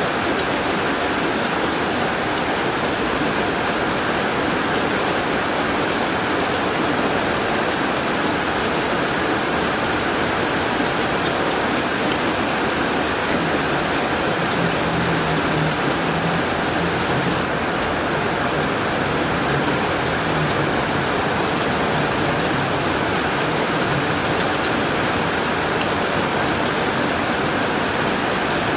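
Heavy rain drumming steadily on a tin roof, with scattered sharp drop hits. A low rumble of thunder comes in about halfway through and fades away.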